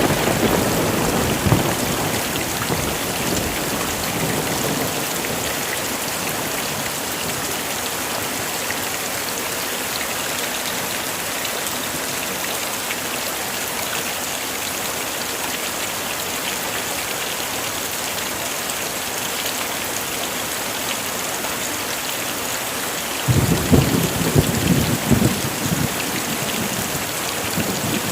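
Heavy rain falling steadily, with a rumble of thunder fading away as it begins and a louder thunder rumble a little before the end.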